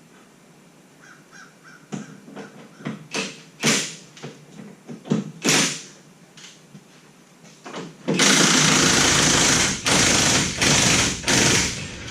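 Pneumatic impact wrench running in four loud rattling bursts near the end. Before that come a few scattered metal clicks and knocks of hand tools.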